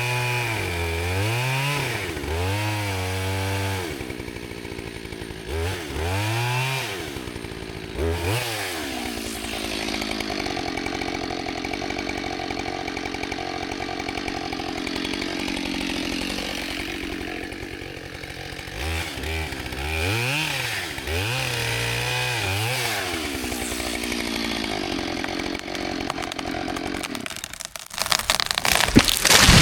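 Gas chainsaw revving up and down several times, then running steadily under load while cutting into a dead tree, with a few more revs later on. Near the end a loud sudden crack and crash, the tree breaking and coming down.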